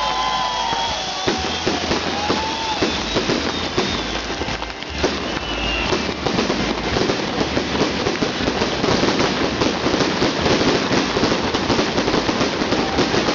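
Fireworks display crackling continuously, with a rapid, dense stream of small bursts and a few whistling tones; it dips briefly about five seconds in, then grows denser.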